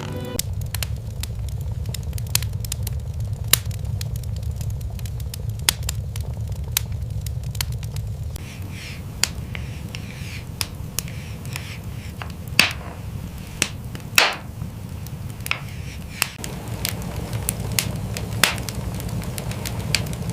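Wood fire crackling, with irregular sharp pops, a few louder ones past the middle, over a steady low rumble.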